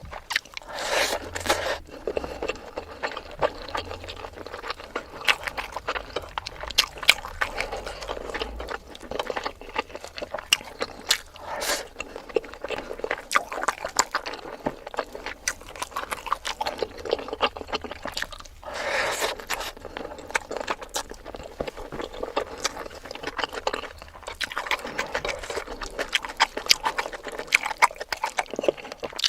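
Close-miked eating: irregular chewing and wet mouth clicks throughout, with two longer, louder noisy sounds, one about a second in and one about two-thirds of the way through.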